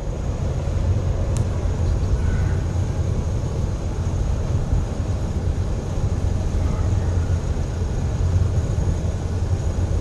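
Semi truck cruising at highway speed, heard from inside the cab: a steady low engine drone with road and tyre noise.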